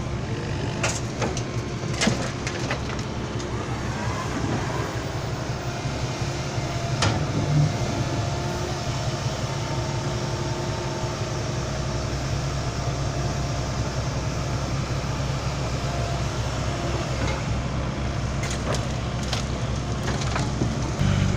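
Diesel engine running steadily during excavator loading of a dump truck with soil, with a few sharp knocks and clunks here and there.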